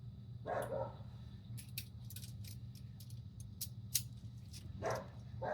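Irregular light metallic clinks and rattles of hand tools being handled and fitted, with a couple of duller scrapes, over a steady low hum.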